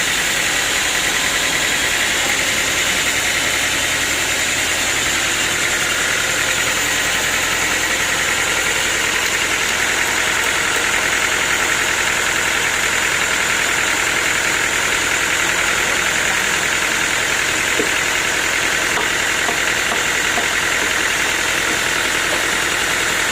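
Sawmill machinery running steadily, an even mechanical drone with a high hiss and no distinct cuts or impacts.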